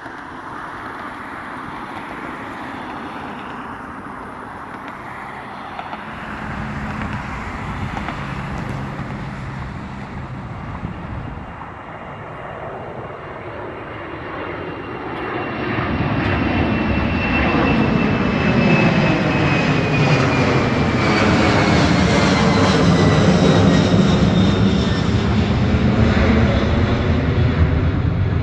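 Jet airliner passing close by. Its engine noise builds sharply about halfway through and stays loud, and a high fan whine falls slowly in pitch as it goes past.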